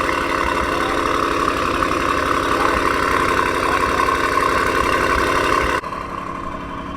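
Audi RS5 engine idling steadily through its exhaust. The sound drops suddenly in level near the end.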